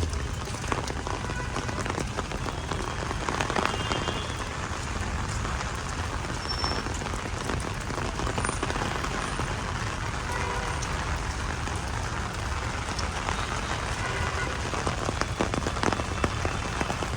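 Heavy rain falling steadily onto hard surfaces: an even hiss with many separate drop hits.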